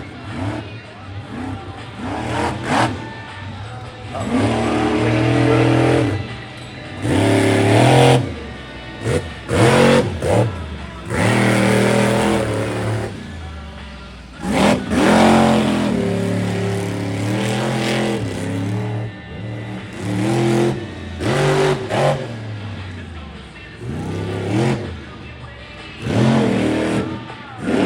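Monster truck's engine revving hard again and again, its pitch climbing and dropping back in repeated surges.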